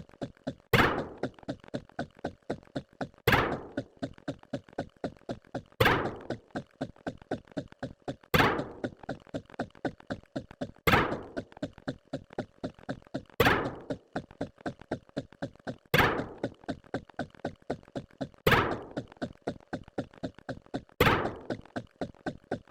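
Repeating knock-like sound effect: a loud thunk about every two and a half seconds, with quicker, fainter clicks, about four a second, between the hits.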